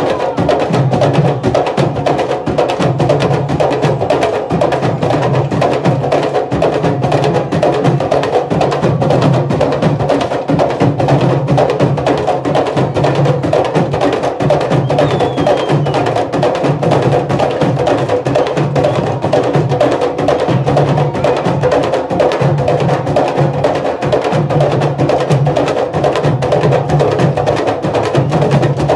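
Candombe drum ensemble (tambores chico, repique and piano) playing a steady, dense rhythm. Many fast, sharp stick-and-hand strokes on the drumheads run over a repeating low pulse from the piano drum.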